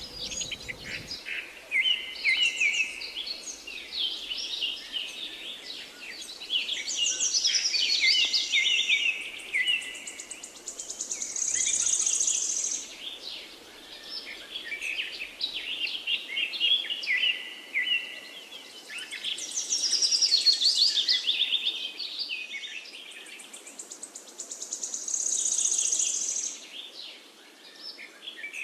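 Many small birds chirping and twittering together in a dense, continuous chorus of high calls and rapid trills, swelling louder several times.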